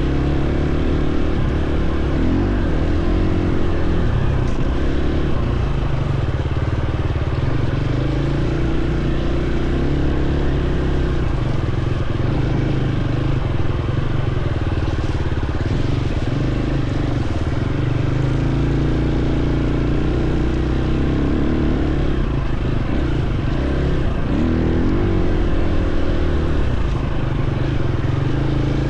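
Dirt bike engine running under varying throttle, its pitch stepping up and down again and again.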